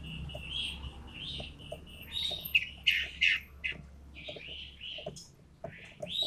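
A toed matahari songbird calling in loud, sharp chirps: a run of short notes with several quick sharp chirps in the middle.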